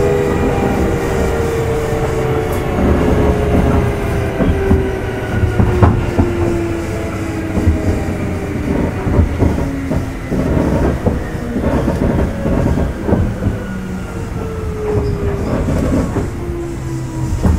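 Kintetsu 1810 series motor car Mo1826 running on the rails, heard from inside the car: a steady rumble with clacking wheel knocks over the rail joints. A motor whine falls slowly in pitch over the first half, and another falling whine comes near the end.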